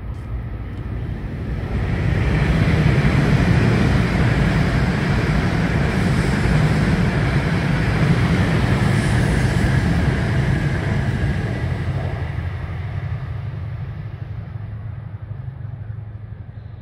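Hokuriku Shinkansen high-speed train running through at speed: a steady rushing noise of wheels on rails and air, building over the first two seconds, holding strong for about eight seconds, then slowly fading away.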